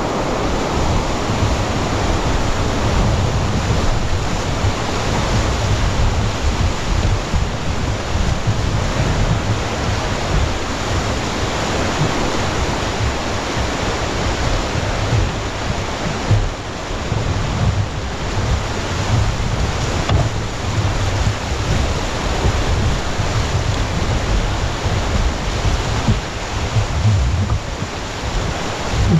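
Rushing whitewater river flow with wind buffeting the microphone in uneven low gusts, dipping briefly about halfway through.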